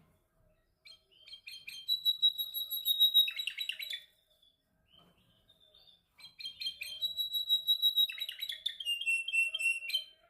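Domestic canary singing two song phrases separated by a pause of about two seconds. Each phrase has rapid trills and a long held high note, and the second phrase ends on a lower sustained note.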